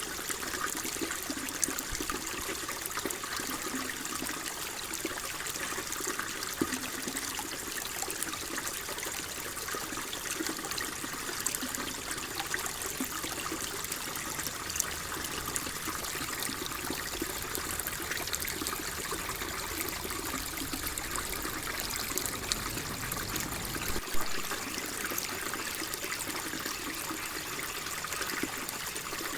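Water flowing and trickling steadily, with small splashes and gurgles scattered through it.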